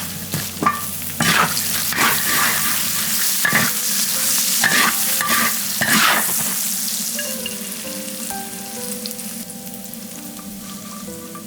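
Food sizzling in hot oil in a pan, stirred with a run of quick scraping strokes over the first six seconds, after which the sizzle gradually dies down.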